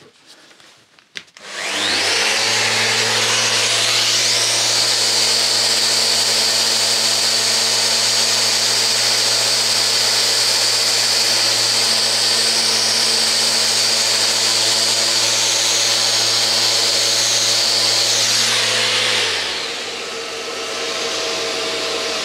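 Small electric detail sander switching on and spinning up to a steady high whine, sanding down dried filler on a ceiling, then winding down near the end.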